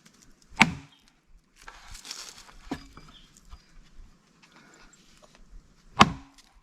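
Heavy knocks of blows driving a wooden wedge into a log to split it for firewood: two loud strikes about five seconds apart, with a lighter knock between them.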